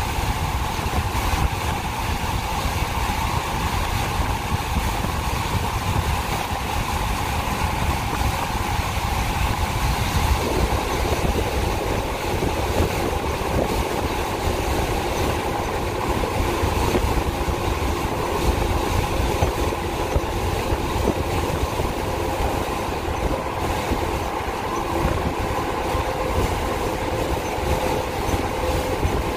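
Freight cars of a Union Pacific manifest train rolling past: a steady rumble of steel wheels on rail. A faint steady high note joins about a third of the way in.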